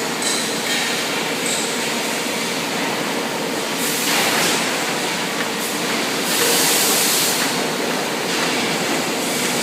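Automatic wet enamel coating machine running steadily, with louder bursts of hissing about four seconds in and again from about six and a half to seven and a half seconds, and a faint steady hum underneath.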